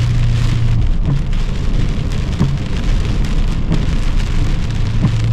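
Heavy rain beating on a car, heard from inside while driving, over a low engine and road hum. The hum fades about a second in and comes back near the end.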